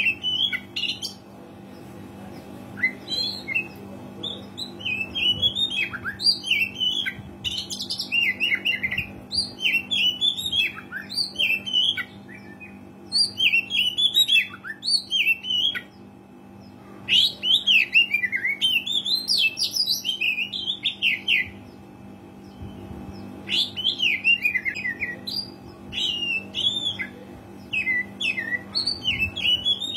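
Oriental magpie-robin (kacer) singing vigorously in bursts of fast, varied whistles and scratchy notes, each burst a few seconds long with short pauses between, over a steady low hum.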